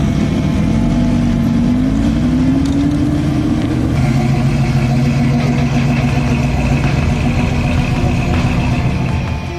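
Car engine running, its pitch rising over the first few seconds, then holding steady before it falls away near the end.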